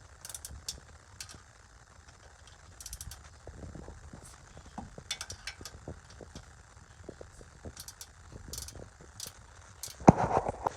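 Hand tools working a nut on a truck's rear shock mount: a ratchet wrench clicking in short irregular runs, then a single louder metallic knock near the end.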